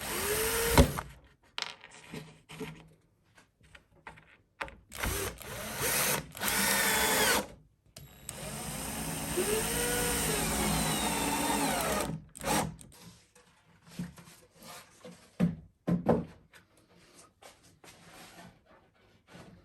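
Power drill working wood in three runs: a short burst at the start, then two longer runs, the last about four seconds, with the motor pitch rising and falling under load. Short knocks and clicks of handling follow near the end.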